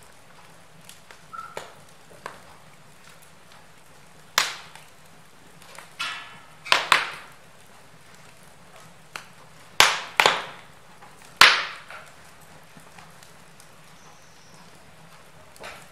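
Wood fire in a fireplace crackling, with several sharp pops standing out over a faint steady hiss; the loudest come about four and a half, seven, ten and eleven and a half seconds in.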